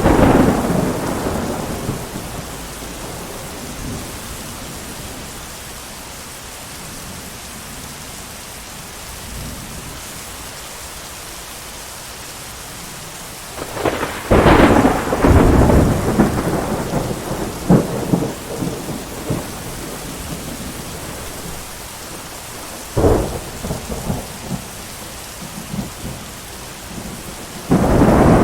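Steady heavy rain with thunder rolling in several times: a rumble right at the start, a long crackling roll about halfway through, a sharp clap a few seconds later, and another rumble near the end.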